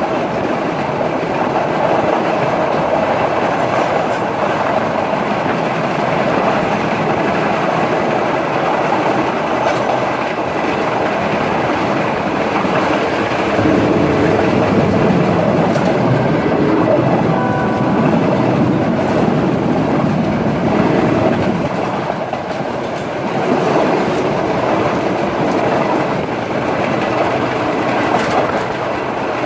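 Passenger train running along the line: a steady rumble with the clickety-clack of wheels on the rail joints.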